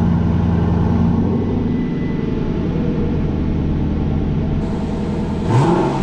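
Lexus LC 500's 5.0-litre V8 running at a high, steady cold-start idle, settling slightly about a second in. Near the end the engine is revved once, its pitch rising quickly.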